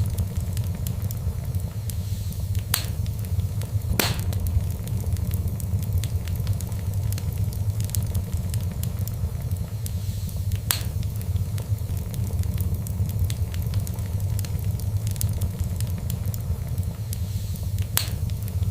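Fireplace fire crackling, with scattered small ticks and a few louder sharp pops over a steady low rumble.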